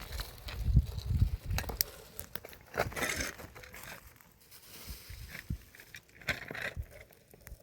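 Hand tools digging and scraping in stony soil: irregular crunches and scrapes, with a few low thumps in the first second and a half.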